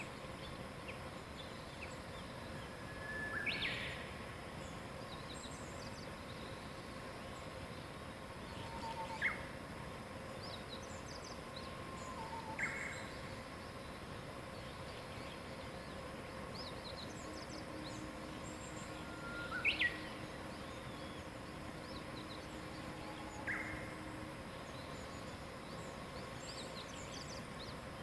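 Wild birds singing: one nearer bird repeats a short song five times, several seconds apart, each phrase ending in a quick falling note, while fainter birds chirp high in the background over a steady faint hum.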